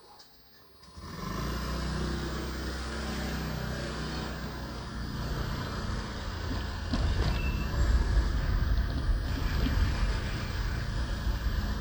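Near silence for about a second, then a motorbike engine running steadily with street traffic noise, growing louder about seven seconds in.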